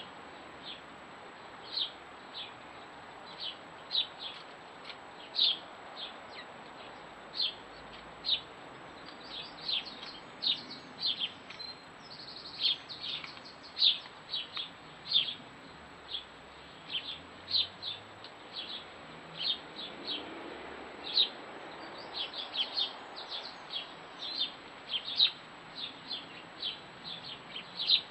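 Small garden birds chirping: short, sharp high chirps, sometimes singly and sometimes in quick runs of several.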